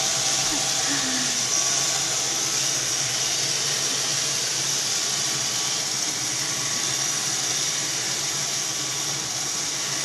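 Roomba robot vacuum running: a steady, even whirring hiss from its motor and brushes.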